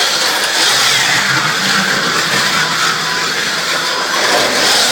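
1/43 scale Carrera Go slot cars running laps on the plastic track: a steady, loud whir of small electric motors and gears with tyre and track noise, wavering slightly in pitch.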